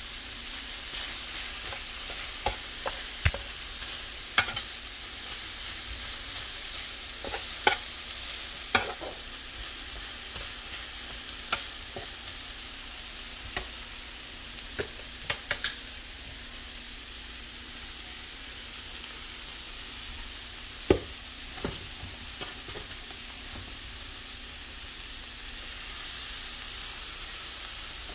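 Sliced red onions and chicken breasts sizzling steadily on a hot griddle. A spatula scrapes and clicks against the griddle surface a dozen or so times as the onions are stirred, mostly in the first half, with one sharper knock about 21 seconds in.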